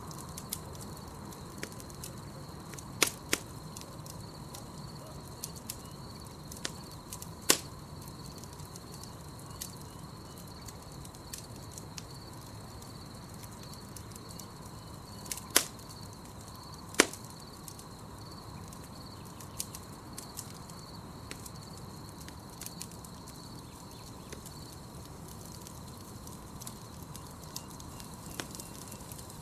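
Campfire crackling with small ticks and a handful of sharp, loud pops from the burning wood. A steady high chirring of night insects runs behind it.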